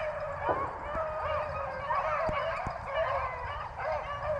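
A pack of rabbit-hunting hounds baying together, with many overlapping calls that rise and fall: the pack is in full cry on a rabbit's trail.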